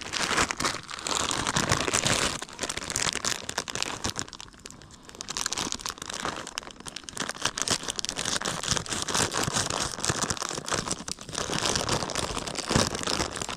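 Plastic and paper packaging of a bag of ready-made charcoal being torn and crinkled by hand as it is opened, a dense crackly rustling that runs on with a short lull partway through.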